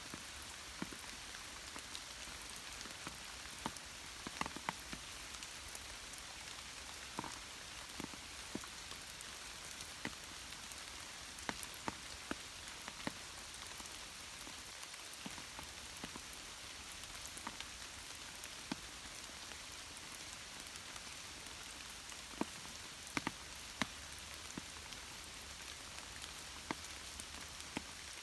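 Steady rain falling, a soft hiss with scattered drops tapping close by, a few louder drips standing out.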